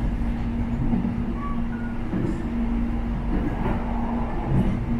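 Moving electric airport train heard from inside the carriage: a steady running rumble with a constant low hum, and a few soft knocks from the wheels.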